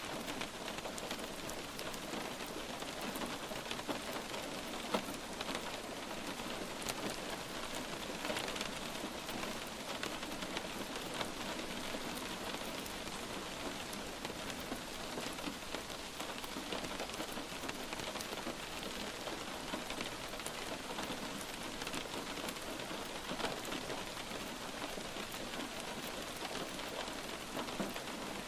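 Steady light rain falling, an even hiss dotted with many individual drops hitting a surface, a few of them louder.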